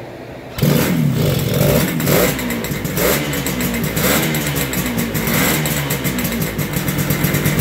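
A 1964 Yamaha YDS3's 250cc two-stroke twin starting up about half a second in and catching at once. It is blipped with the throttle several times in short rising and falling revs, then settles to a steady idle near the end. The engine is cold-blooded and likes choke when it first starts.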